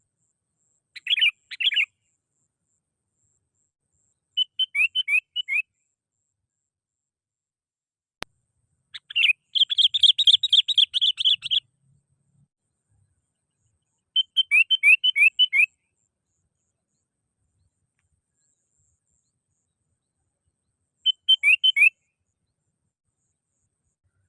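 Sooty-headed bulbul (kutilang) song as used for lure calling: five short phrases of quick, chattering notes separated by silent gaps. The longest and loudest phrase comes about nine seconds in. A single sharp click sounds a little after eight seconds.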